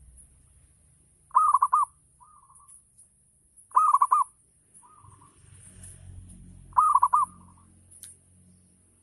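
Zebra dove (perkutut) cooing its song: three phrases about two and a half to three seconds apart, each a quick run of rolling coos followed by a short, softer note.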